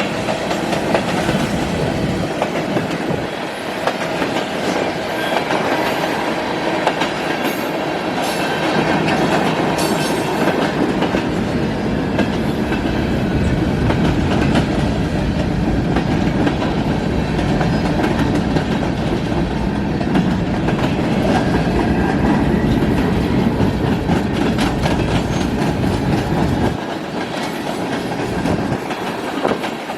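Freight train rolling past with a steady rumble, its wagon wheels clicking over the rail joints.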